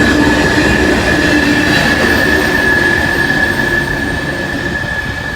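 Freight train rolling by close, the cars rumbling over the rails with a steady high-pitched wheel squeal held throughout; the sound eases slightly toward the end.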